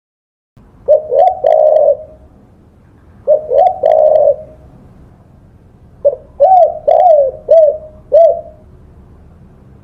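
Spotted dove (tekukur) cooing: two short phrases of low, hooting coos, then a run of five separate coo notes about a second apart. The sound starts abruptly about half a second in, after silence.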